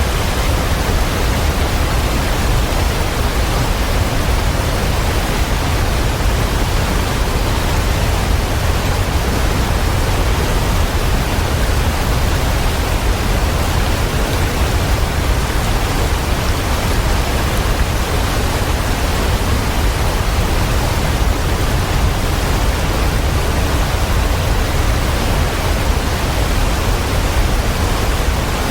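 Waterfall: a steady, even rush of falling water with a deep rumble underneath.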